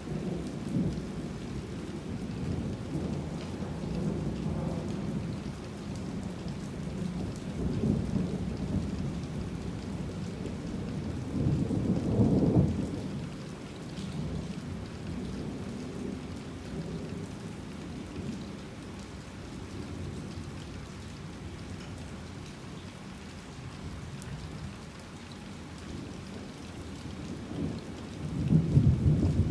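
Thunderstorm: steady rain with repeated low rolling thunder rumbles that swell and fade. The loudest peal comes about twelve seconds in, and another rumble builds near the end.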